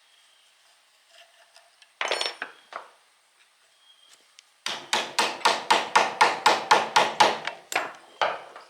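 Hammer blows on the metal parts of an old Greaves horizontal milling machine, knocking a stuck part loose. A short clatter comes about two seconds in, then a quick, even run of about fifteen ringing strikes, some five a second, and two last blows near the end.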